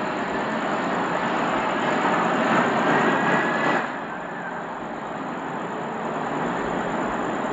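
BNSF freight train rolling past, a steady rushing rumble of railcars with a faint high squeal about two seconds in. The noise eases off slightly just before the four-second mark.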